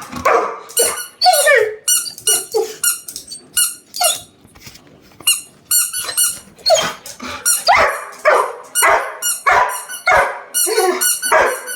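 Labrador retriever barking and whining in short, repeated bursts, some sliding down in pitch, with a brief lull about four seconds in: a dog protesting at being kept from its toy.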